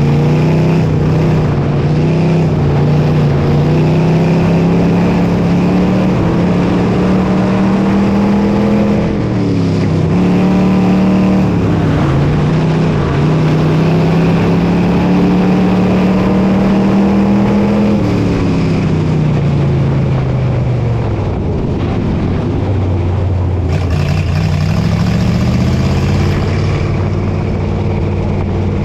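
Dirt modified race car's V8 engine at racing speed, its pitch climbing steadily on the straights and dropping sharply off the throttle into the turns, about nine seconds in and again from about eighteen seconds, then climbing once more near the end.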